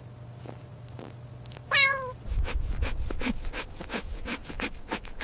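A domestic cat meows once, a short call that falls in pitch at its end, about two seconds in. It is followed by a run of quick clicking sounds over a low rumble.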